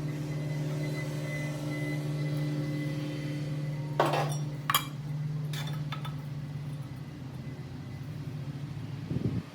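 A steady mechanical hum with a faint high whine, fading out after about seven seconds, and a few sharp metal clinks about four to six seconds in, from exhaust parts or tools being handled.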